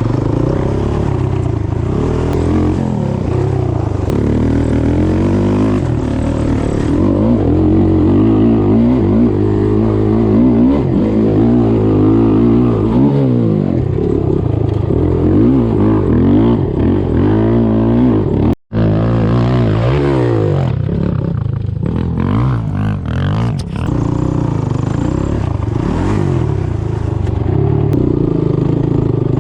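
Single-cylinder off-road engine of a sport ATV or dirt bike being ridden, revving up and down again and again as the throttle is worked, with rattling from the machine over rough ground. The sound cuts out for an instant a little past halfway.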